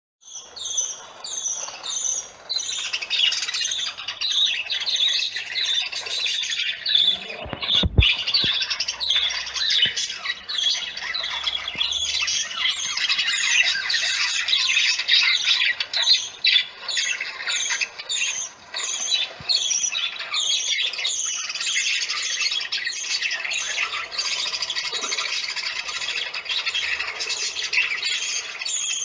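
A flock of parakeets screeching continuously, many harsh overlapping calls in quick succession. A brief low thump sounds about eight seconds in.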